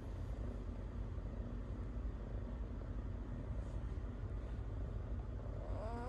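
A steady low rumble in the background, with a short cat meow that rises and falls right at the end.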